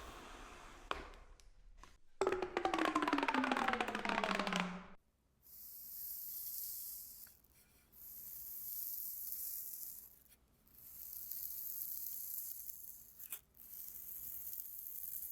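Red-hot metal meeting a liquid. First comes a loud stretch of dense crackling with a tone that falls in pitch. Then four separate high hissing sizzles follow, each about two seconds long, with short breaks between them.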